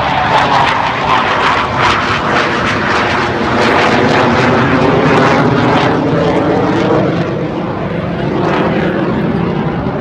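Aircraft engine noise from a plane flying past, loud and wavering throughout, rising to its strongest about halfway through and easing slightly near the end.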